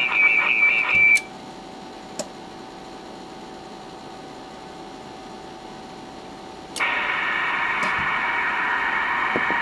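Icom IC-718 HF transceiver's speaker audio: a warbling tone for about a second, then a few seconds of low hiss with a single click, then steady band static starting about seven seconds in. The quiet stretch fits the receiver being muted while the rig is keyed on RTTY into the antenna, with the static returning when it unkeys.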